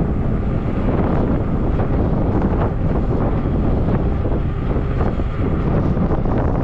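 Wind buffeting the microphone on a moving e-bike: a steady, loud, low rumble.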